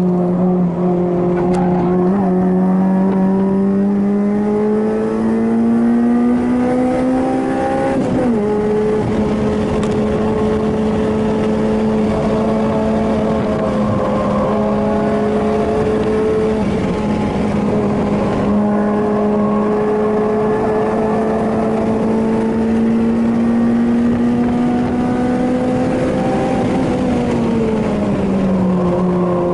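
Honda Civic Type R FD2R's four-cylinder engine running hard at high revs, heard from inside the cabin on track. The pitch climbs slowly, drops sharply about eight seconds in, then climbs again and falls away near the end.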